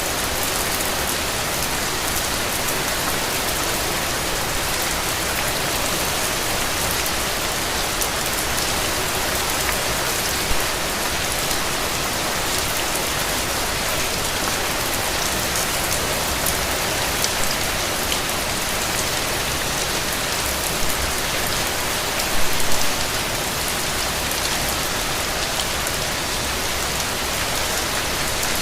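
Steady rain falling, an even hiss full of small drop ticks, with a few louder drop hits about ten seconds in and again a little past the twenty-second mark.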